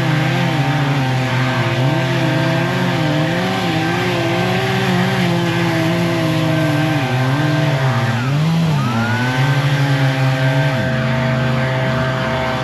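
A heavy machine's engine runs steadily under varying load, its pitch wavering up and down, with a constant whine above it. About eight seconds in the engine pitch dips sharply and climbs back.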